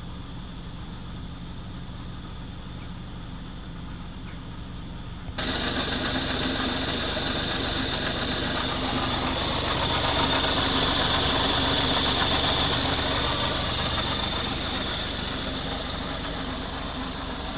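BMW X4 30i's 2.0-litre turbocharged four-cylinder engine idling steadily while parked. About five seconds in it abruptly becomes louder and brighter, with a higher whirring hiss that swells in the middle and eases toward the end. The owner is unsure whether this engine noise is normal after a loss of coolant.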